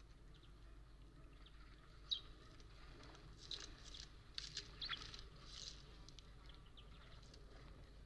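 Faint, short bird chirps and a few sharp clicks, most of them in a cluster near the middle, over a low steady hum.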